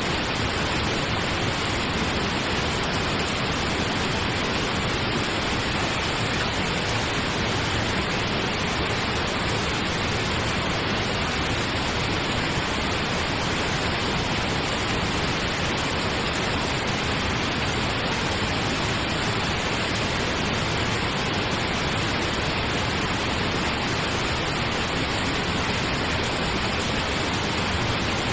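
Steady pink noise, an even hiss that holds unchanged throughout.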